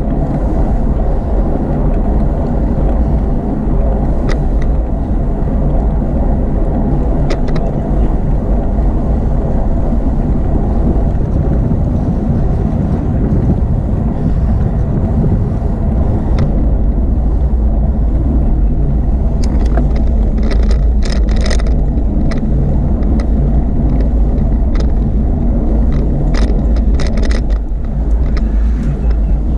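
Steady, loud low rumble of motorway traffic and wind noise heard from a moving bicycle. A run of sharp clicks comes in the second half.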